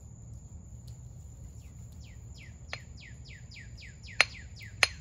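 A songbird singing a fast series of downslurred chirps, about five a second, starting about a second and a half in, over a steady high-pitched tone. About four seconds in come two sharp clicks half a second apart, the loudest sounds here.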